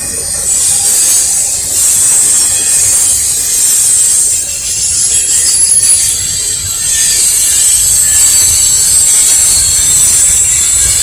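Norfolk Southern intermodal freight train passing close by: steady rumble of railcars with high, shrill wheel squeal from the wheels on the rails.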